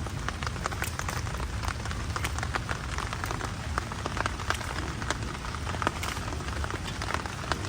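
Heavy rain falling, with many individual raindrops ticking sharply close by over a steady low rumble.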